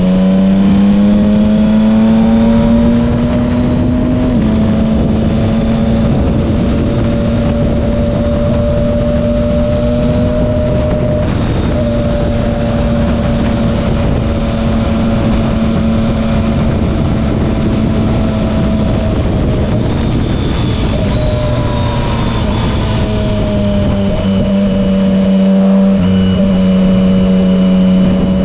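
Yamaha Tracer 900 GT's three-cylinder engine through an SC-Project aftermarket exhaust, cruising at a nearly steady pitch under light throttle with wind rush over it. The engine note eases off a little past two-thirds of the way in and begins to climb again near the end.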